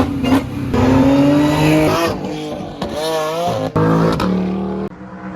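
Car engine revving as the car accelerates. The pitch climbs, wavers and drops sharply a couple of times, then settles to a steady note near the end.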